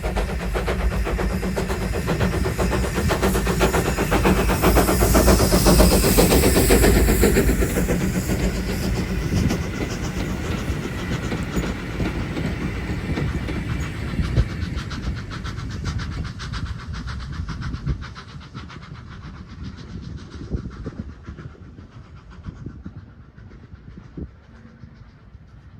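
Steam train passing close by, loudest a few seconds in, then its wheels clicking steadily over the rail joints as it draws away and fades.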